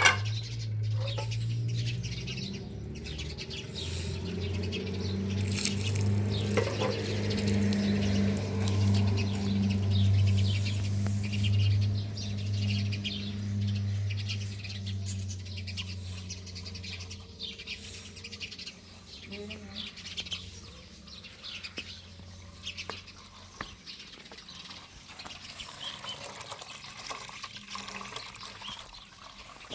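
Birds chirping repeatedly over a low steady hum that swells, then fades out a little past halfway.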